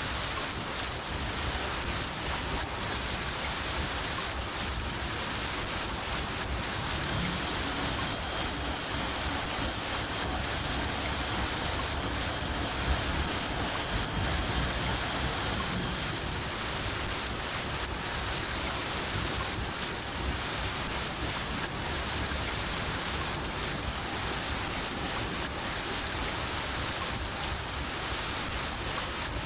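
A cricket chirping steadily in an even, high-pitched rhythm of about three chirps a second, over the steady hiss of summer rain and low rumbles of thunder.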